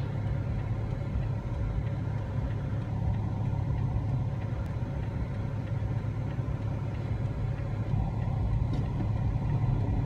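A car's engine running, heard from inside the cabin as a steady low hum with no change in pitch.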